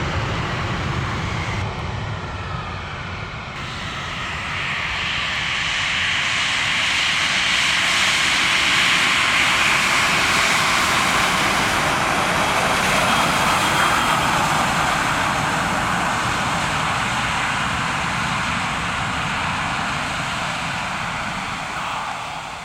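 Airbus A319's CFM56 jet engines running loudly on the landing roll. The roar swells about four seconds in, holds, then dies away near the end, typical of full-power reverse thrust being applied and then cancelled.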